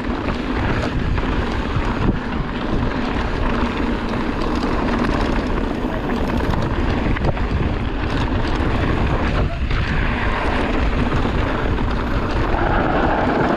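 Wind buffeting the microphone and tyres rumbling over a dirt trail as a mountain bike rides at speed, with a few short knocks from bumps along the way.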